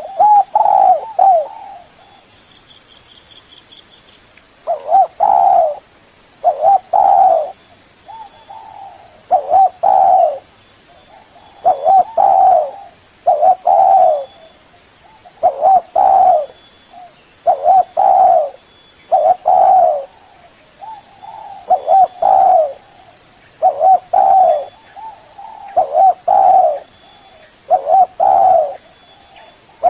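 Spotted dove (Spilopelia chinensis) cooing loudly and repeatedly, in short phrases of coos about every two seconds, with a pause of a few seconds near the start.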